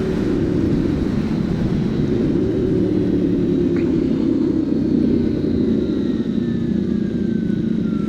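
Motorcycle engine running steadily at low revs, a dense pulsing rumble with no rise in revs. A faint falling whine comes in during the second half.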